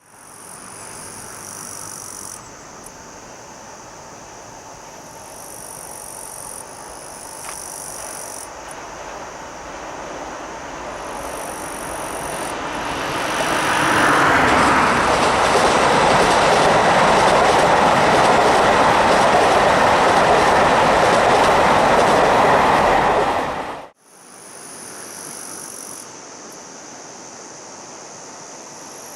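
JR Hokkaido KiHa 261 series 1000 subseries diesel express train approaching and passing at speed. Its noise swells over several seconds into a loud, steady rush of engines and wheels, then cuts off abruptly about 24 seconds in.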